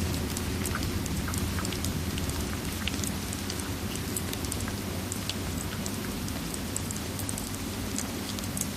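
Steady rain with a low rumble, layered with the scattered sharp pops and crackles of a wood fire in a fireplace.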